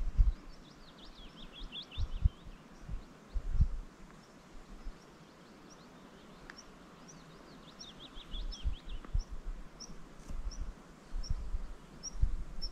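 Small songbird singing outdoors: two quick runs of short high chirps, with single high notes between them. Occasional low thumps sound under the song.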